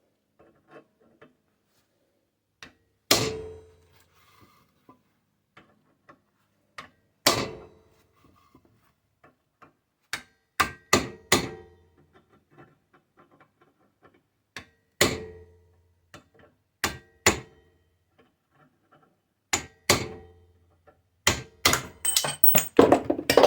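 Hammer blows on metal, knocking an old bent pivot pin out of a ride-on train's pedal handle. Single ringing strikes come a few seconds apart, then a quick run of blows near the end.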